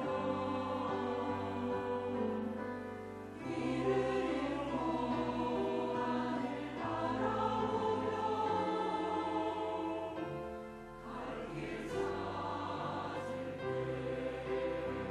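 Church choir singing a sacred anthem in parts, on sustained notes. The singing dips briefly between phrases about three seconds in and again near eleven seconds.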